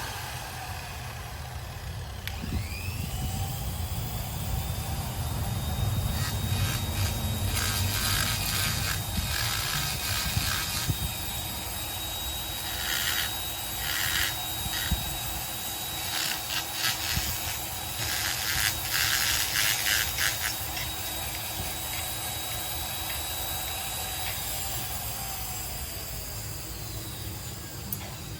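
A small high-speed power tool motor spins up with a rising whine, runs steadily, and winds down near the end. Several spells of rough, rattly scraping come in the middle, as the tool bites into material.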